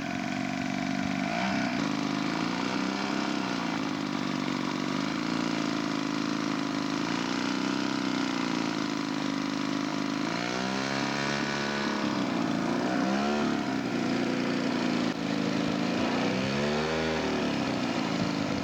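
Small engine of a radio-controlled model airplane running steadily, its pitch swinging up and down twice in the second half as it revs or passes by.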